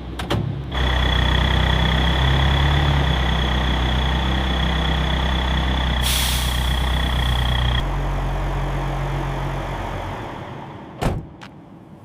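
Diesel semi-truck engine running at a steady idle with a high whine over it. About six seconds in a burst of air-brake hiss, then the engine note drops and fades away, with a single knock near the end.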